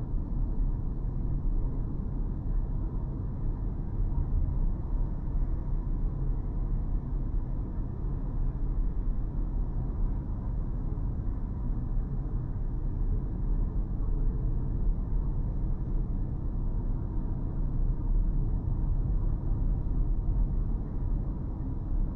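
Car driving steadily: an even low rumble of road and engine noise.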